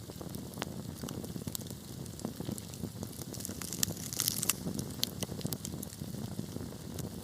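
Wood fire burning: a low steady rumble of the flames with irregular sharp crackles and pops from the burning wood, thickest in a brief cluster a little past halfway.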